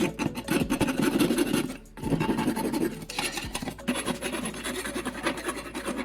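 Hand metal file scraping along the freshly cut edges of an iron bar, deburring them: rapid rasping strokes, with a brief pause about two seconds in.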